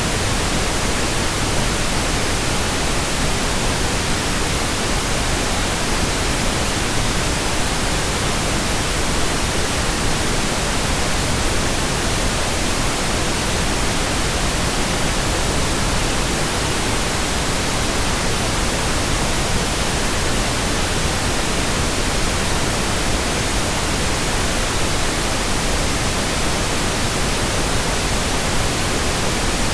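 Steady white noise: an even, unbroken hiss spread across the whole range from low to high, with no change in level.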